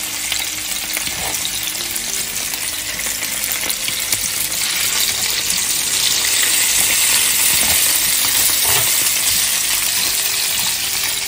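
Stuffed chicken rolls sizzling as they shallow-fry in oil in a nonstick pan while being turned over with metal tongs. The sizzle grows louder from about halfway through.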